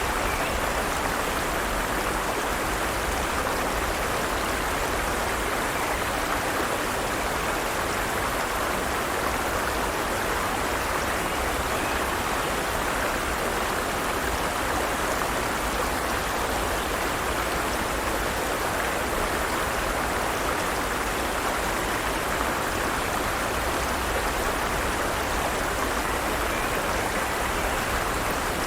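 Forest stream running steadily over rocks, a constant even rush of water.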